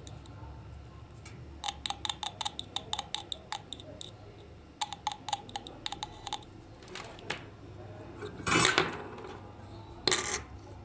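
Small parts and hand tools being handled during a toy repair: two runs of quick, light clicks and taps with a slight metallic ring, then two louder, brief noisy sounds near the end.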